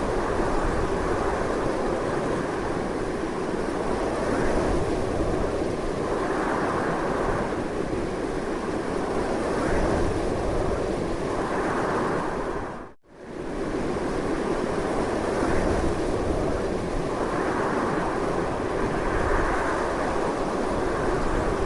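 Strong wind blowing continuously in slow swells, with no pause in the noise except a brief drop to near silence about halfway through, where it fades out and straight back in.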